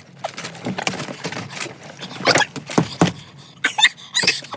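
Irregular rustling, scraping and knocks of movement close to the microphone, with a few louder hits about halfway through and near the end.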